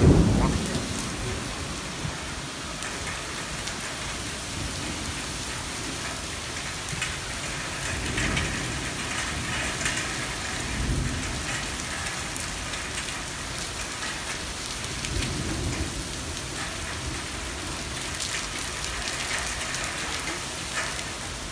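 Heavy, wind-driven rain pouring down steadily in a thunderstorm. There is a loud low rumble right at the start and a few fainter low swells later on.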